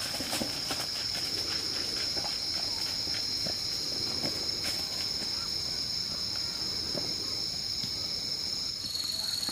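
A steady, high-pitched insect drone that steps down to a slightly lower pitch near the end, with faint scattered clicks and rustles under it.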